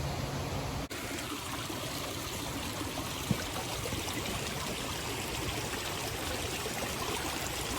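Rushing mountain water running in a steady, even rush, with one short click about three seconds in.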